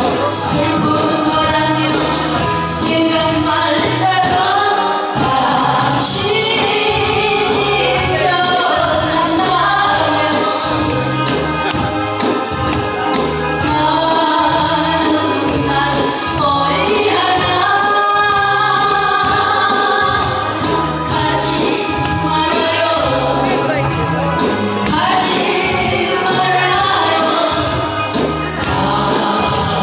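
A woman singing a Korean pop song over a backing track with a steady beat.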